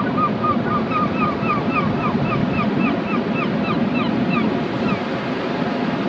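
Surf washing steadily with wind, while a bird calls in a quick run of short, slightly falling chirps, about four a second, stopping about five seconds in.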